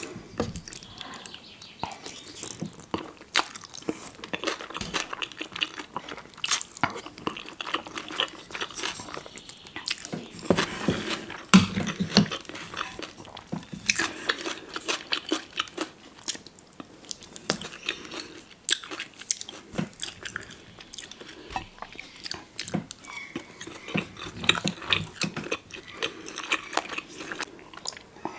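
Close-miked chewing and biting of food, with many crisp crunching clicks running on without a break.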